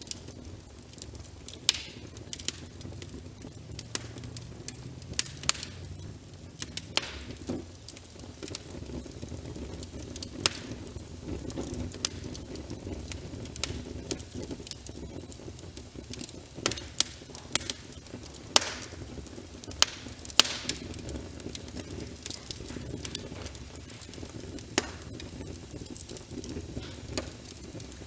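Wood fire crackling in a fireplace: irregular sharp pops and snaps, some much louder than others, over a steady low rushing background in which rain is layered with the fire.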